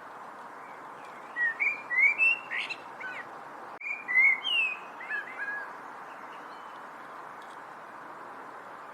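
Songbird singing a run of short, slurred whistled chirps about one to five and a half seconds in, over a steady background hiss.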